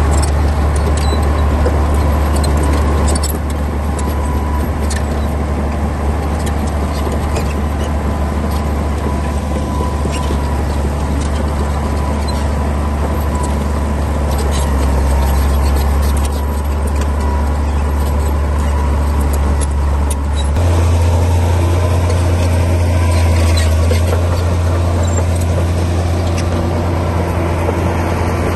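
Komatsu D60P bulldozer's diesel engine running steadily with a deep drone that steps up in pitch about two-thirds of the way through. Scattered light clicks and knocks lie over it.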